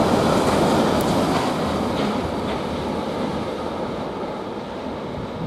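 GBRf freight train rolling through the station, its wheels clicking over the rail joints a few times, the noise fading steadily as it moves away.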